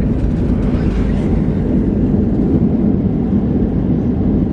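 Steady, loud rumble of a passenger jet's engines and airflow heard from inside the cabin.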